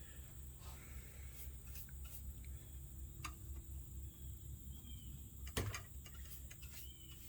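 Faint handling sounds of varnishing a wooden propeller by hand: soft brush strokes of polyurethane with a few light clicks and taps, the sharpest tap about five and a half seconds in, over a low steady hum.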